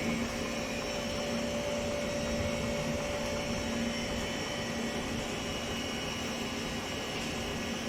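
Batch ice cream freezer running with its refrigeration compressor on and the dasher blades turning, a steady machine hum with a low and a mid tone: the mix is being frozen and whipped.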